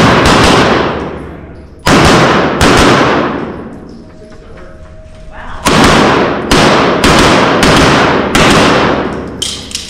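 Pistol shots with a long ringing decay after each: two about three quarters of a second apart near the two-second mark, then a string of five fired roughly every three quarters of a second.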